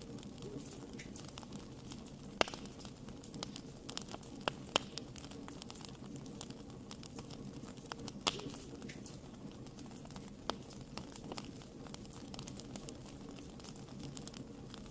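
Fire burning in a fireplace and crackling: irregular sharp pops and snaps over a low, steady rumble. The loudest pops come about two and a half seconds in and again about eight seconds in.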